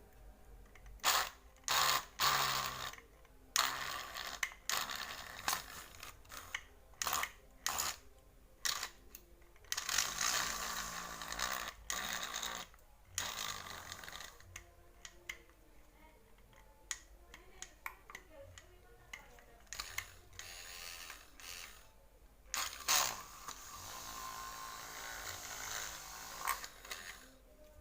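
Irregular clicks, knocks and short scrapes of small metal parts and tools being handled, with a couple of longer scraping stretches.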